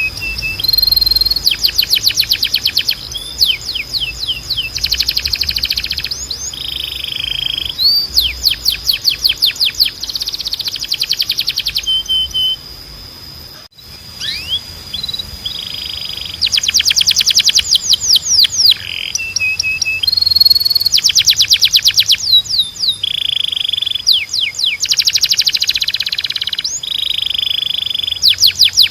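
Domestic canary singing: fast rattling trills alternate with held whistled notes and sweeping slides, phrase after phrase, with a brief break about halfway through.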